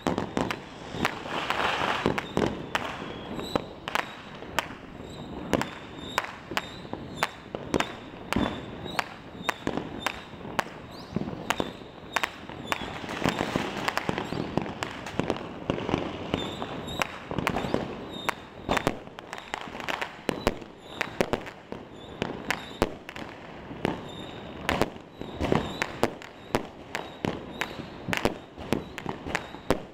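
A dense, unbroken barrage of fireworks and firecrackers going off all around. There are irregular sharp bangs, a couple a second, some loud and some faint, over a steady background rumble of many more distant explosions.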